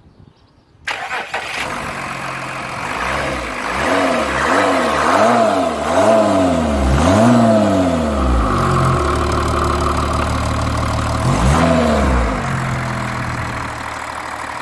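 Volkswagen Touareg 3.0 TDI (CRCA) V6 diesel engine starting about a second in. It is then revved in several quick blips, settles to a steady idle, and is blipped once more near the end.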